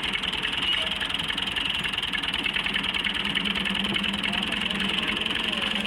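A vehicle engine idling steadily, with an even, rapid low throb.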